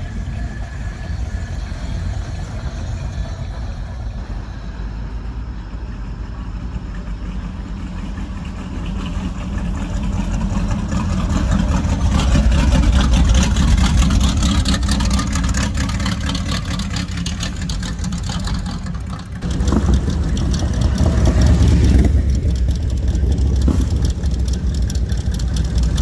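Car engines running as cars roll in. The low rumble grows louder about halfway through as a car comes close, drops off for a moment, then jumps up loud again.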